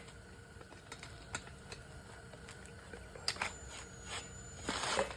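A few light clicks and taps of tools and engine parts being handled, with a short scuffing rustle near the end; no power tool running.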